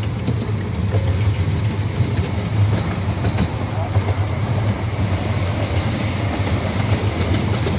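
Miniature amusement-park train running, heard from a riding car: a steady low hum and rumble with a few light clicks from the wheels on the track.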